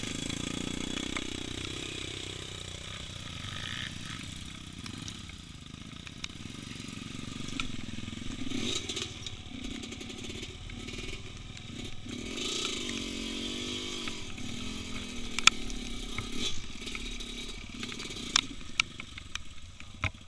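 Motorcycle engine running as it is ridden over a dirt trail, its revs rising and falling, with a few sharp knocks and rattles in the second half.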